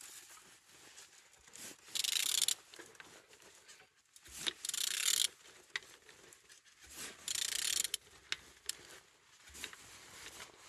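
Renault K9K diesel engine being turned over by hand, its internals and pulley making three separate mechanical rasps, each half a second to a second long.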